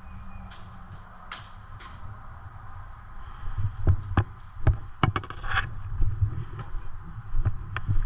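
A player's footsteps and rattling gear as he moves on foot, heard as irregular knocks and clicks over a low rumble. The steps get busier about three seconds in.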